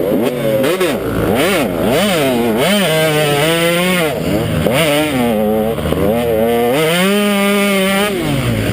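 KTM 150 XC two-stroke dirt bike engine revving up and down over and over as the throttle is worked, its pitch rising and falling quickly. Near the end it holds a steady high pitch for about a second, then drops.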